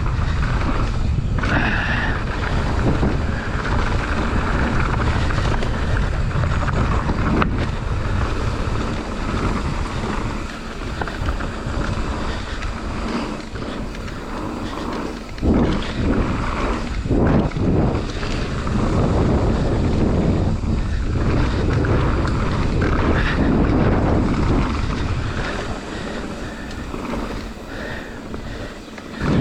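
Wind buffeting the camera's microphone while riding a mountain bike downhill on a trail, mixed with the rumble of the bike over the ground; it eases for a few seconds near the middle and again near the end.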